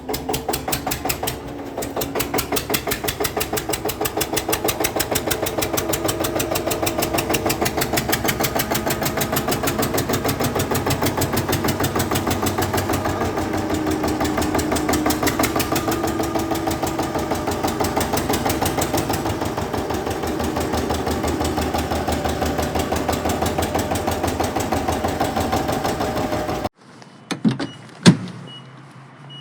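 Mini tractor's engine chugging steadily at about five beats a second, then stopping abruptly a couple of seconds before the end. A couple of sharp knocks follow.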